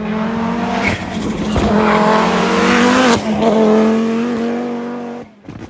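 Rally car engine running at high revs as the car goes past, with a brief dip in revs about three seconds in, then dropping away just after five seconds.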